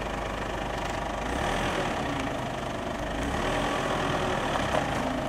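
Mazda BT-50 ute's engine idling with a steady low hum as the vehicle crawls slowly down a steep dirt bank.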